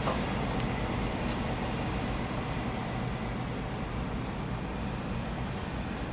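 A train running past on the track, its rumble slowly fading as it moves away. A high wheel squeal dies out within the first second or two.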